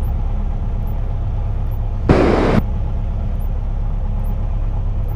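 Cessna 172N's four-cylinder Lycoming engine idling steadily with the aircraft holding short on the ground. A half-second burst of hiss cuts in about two seconds in.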